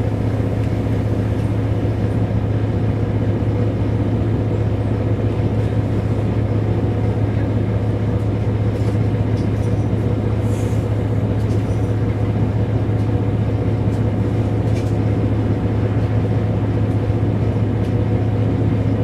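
Mercedes-Benz O405 N² city bus heard from inside toward the rear, its engine running with a steady low drone as the bus drives at an even pace. There are a few light rattles.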